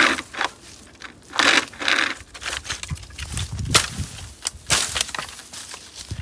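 SOG pocket chainsaw, a hand-pulled chain, rasping through a tree limb in irregular back-and-forth pull strokes, with a sharp crack just past the middle.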